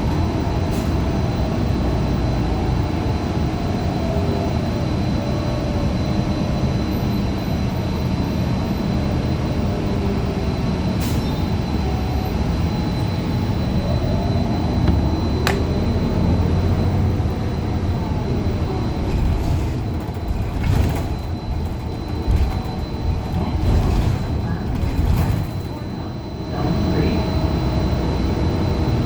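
Inside a 2015 Gillig Low Floor 40-foot CNG transit bus under way: the Cummins Westport ISL G engine and road rumble run steadily under a drivetrain whine that rises and falls with speed. The Allison B400R transmission is one the uploader calls messed up. A few sharp clicks and rattles come through, and the sound grows uneven in the last third.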